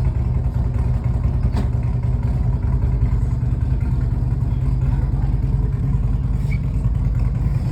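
Harley-Davidson Sportster Seventy-Two's V-twin engine idling steadily with a low rumble.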